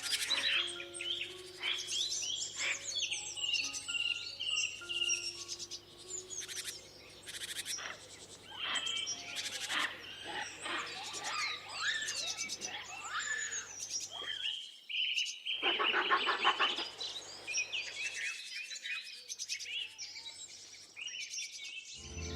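A chorus of many songbirds chirping and calling at once, quick overlapping chirps and whistled notes, with a faint low hum beneath.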